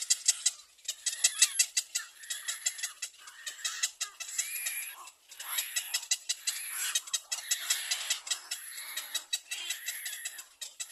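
A group of baby birds peeping, many short high calls overlapping in quick succession.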